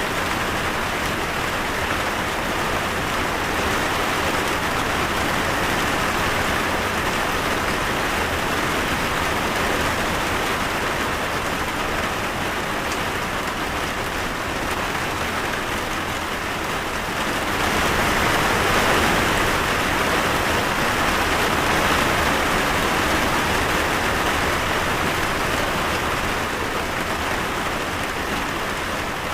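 Steady rain falling, a dense even hiss that grows a little heavier a bit past the middle.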